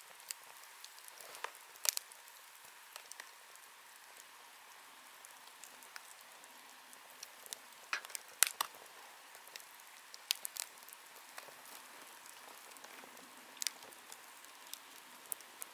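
Wood campfire burning, with a steady hiss and sharp irregular crackles and pops from the burning wood.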